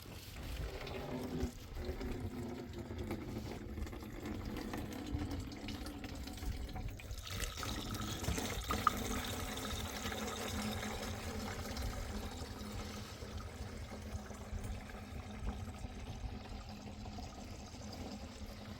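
Water running steadily, the sound getting brighter and fuller about seven seconds in.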